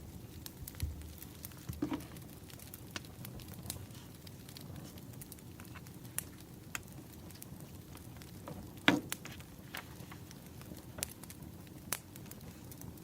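Wood fire crackling: a steady low rush of burning logs with scattered sharp pops and snaps, the loudest about nine seconds in.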